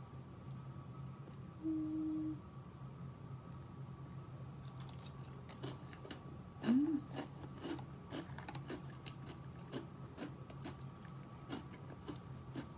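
Chewing and crunching a crisp biscuit with ice cream, a run of small crunches from about four and a half seconds on. There is a short hummed 'mm' about two seconds in and a rising one near seven seconds.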